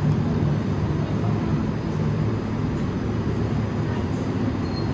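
A steady low machine hum under even background noise, with no change through the stretch.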